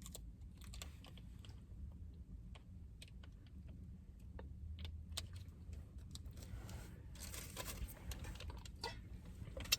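Faint scattered small clicks and ticks, with a soft rustle about seven to eight seconds in.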